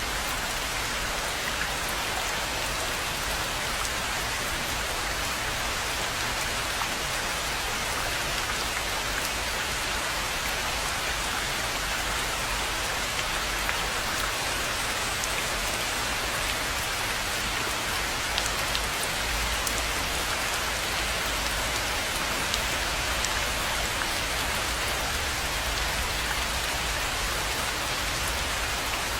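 Steady rain falling on a rainforest pond, an even hiss with scattered sharp drop ticks.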